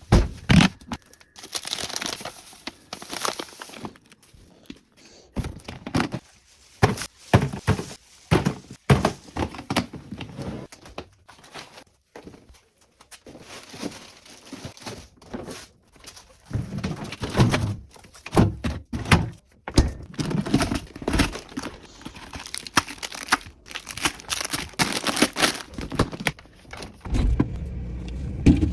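Groceries being handled and unpacked: packages knocking and thunking as they are set down, with bags and wrappers crinkling, in irregular bursts.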